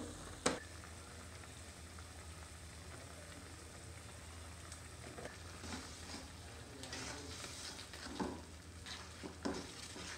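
Potatoes, onion and spice powder frying in oil in a karahi with a faint sizzle. A steel spatula knocks the pan once about half a second in, then scrapes and taps against it several times from about halfway as the mixture is stirred.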